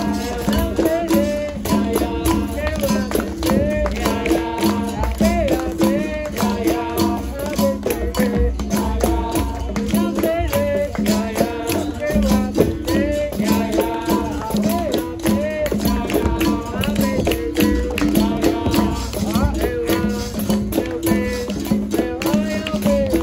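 Capoeira roda music: berimbau and pandeiro playing a steady rhythm, with a group singing along.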